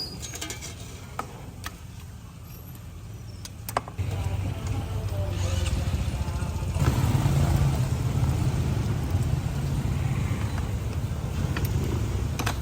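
Low rumble of passing motor traffic that grows louder about four seconds in and again near seven seconds, with scattered sharp clicks.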